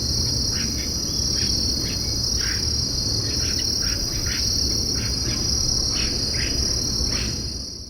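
Steady, high-pitched insect chorus of crickets or cicadas, with about a dozen short chirps scattered through it and a low rumble underneath, fading out near the end.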